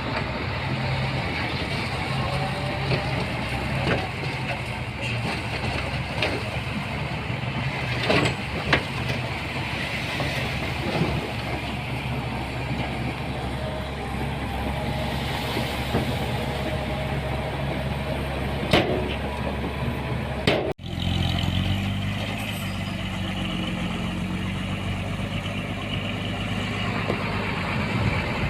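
Diesel engine of heavy earthmoving machinery running steadily under load, with several sharp metallic knocks. About two-thirds of the way in the sound cuts abruptly and resumes with a different engine tone.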